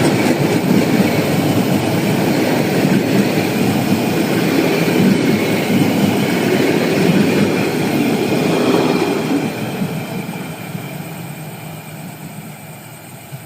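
Passenger train coaches rolling past on the rails in a steady rumble, fading away over the last few seconds as the train moves off.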